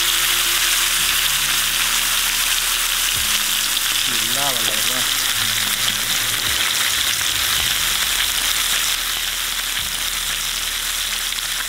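Whole fish sizzling steadily as it deep-fries in hot oil in a frying pan.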